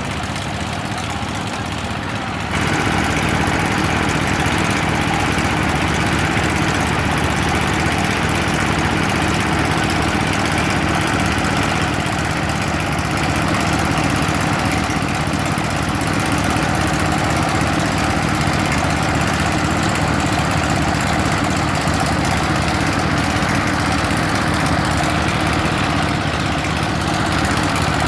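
Homemade well-drilling rig's motor running steadily with a low, even hum; it grows louder about two and a half seconds in.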